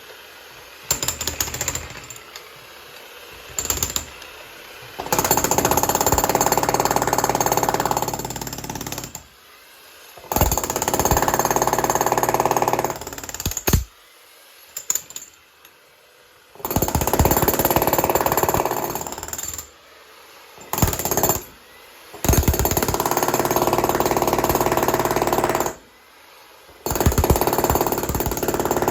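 Electric breaker hammer chipping concrete, run in bursts of a few seconds with short pauses and a few quick stabs between.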